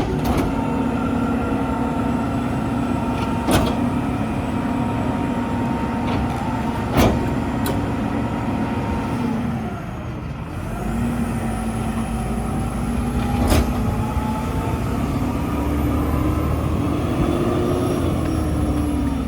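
Mack LEU garbage truck's diesel engine running at raised speed. Its pitch dips about halfway through, then climbs slowly and drops again near the end, with a few sharp clicks or knocks along the way.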